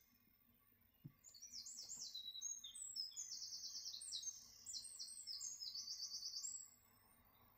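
A songbird singing one long, high-pitched song of rapid trills and quick repeated notes, starting about a second in and lasting some five seconds.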